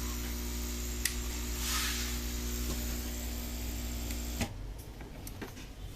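A hot-air appliance's motor runs with a steady hum, with a single click about a second in. It is switched off about four and a half seconds in, and the hum cuts out abruptly.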